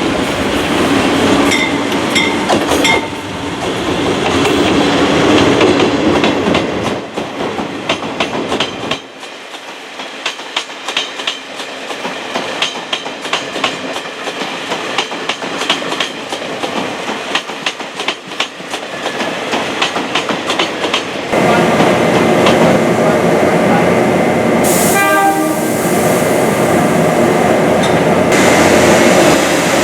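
Train at a station: heavy running noise, then a quieter stretch of rapid wheel and rail clicks, before the noise swells again about 21 s in. A horn sounds briefly about 25 s in.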